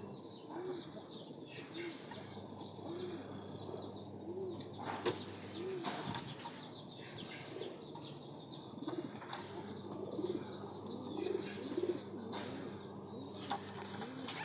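A dove cooing over and over, short arched coos about once a second, with rapid high chirps of small birds behind it and a single sharp click about five seconds in.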